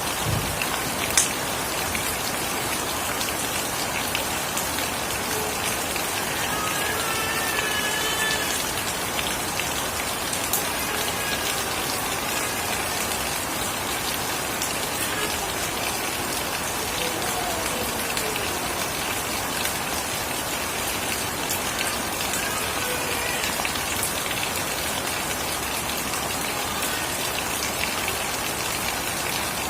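Steady rain falling and pattering on surfaces, with a sharp tick about a second in and another near the tenth second.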